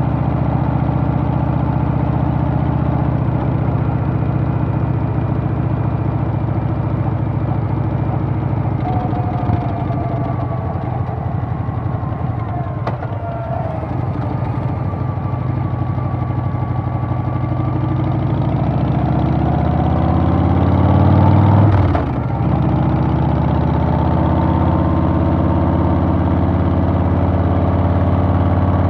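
Harley-Davidson Softail's Milwaukee-Eight V-twin running under way. The engine eases off about a third of the way in, builds again, then drops abruptly about two-thirds through and settles to a steady cruise.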